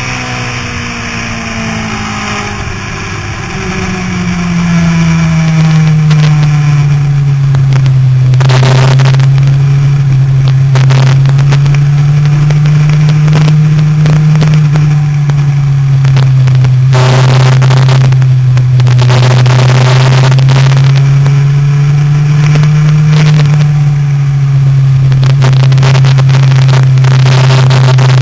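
Motorcycle engine heard onboard at track speed: for the first few seconds its pitch sweeps as the rider works the throttle and gears, then about four seconds in it gets much louder and holds a high steady drone that rises and falls gently, with wind rushing over the camera.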